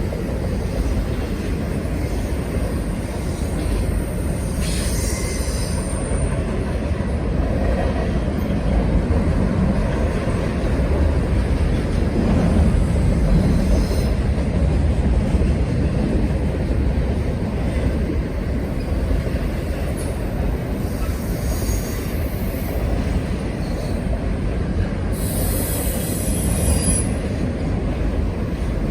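Norfolk Southern freight train rolling past, a steady low rumble of wheels on rail. Brief high squeals from the wheels come about 5 seconds in and again near the end.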